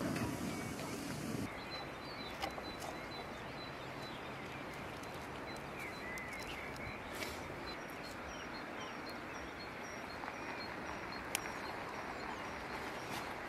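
Outdoor rural ambience: a steady hiss with a bird repeating a short high call about twice a second, and a few light clicks.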